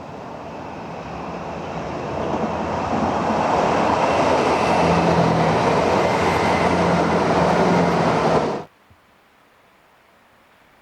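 A train running through the station, its rumble and rush growing louder over the first few seconds and staying loud, then cutting off abruptly about eight and a half seconds in.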